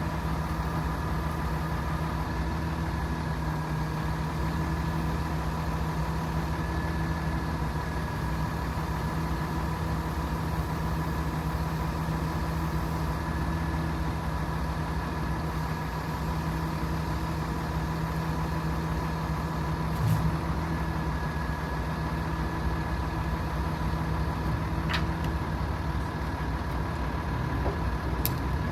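The 7.6-litre turbo diesel of a 2014 Hino 338 truck running steadily with a constant whine over it, and a couple of brief clicks.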